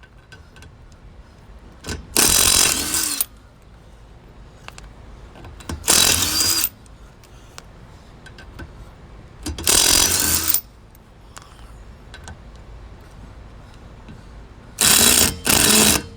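Impact wrench run in short bursts of about a second, five times with pauses between, the last two close together near the end.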